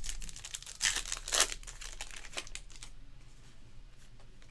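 Plastic wrapper of a trading-card pack crinkling and tearing as it is opened, in a few quick rustles, loudest about a second in.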